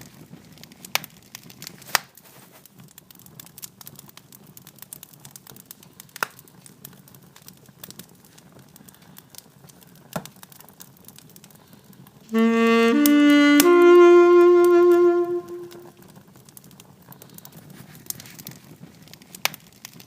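Faint, irregular crackling of a wood fire, with a short three-note rising melody in a reedy, wind-instrument-like tone about twelve seconds in; the last note is held and fades out.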